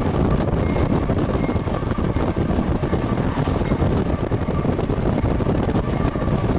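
Steady rumble and rush of a road vehicle driving alongside a moving freight train, with wind buffeting the microphone. A faint steady whine runs underneath.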